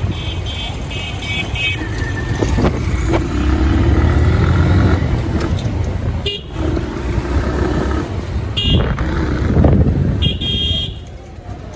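Motorcycle riding through city traffic: heavy wind and engine rumble on the microphone, with vehicle horns beeping in quick repeated bursts at the start and twice more near the end.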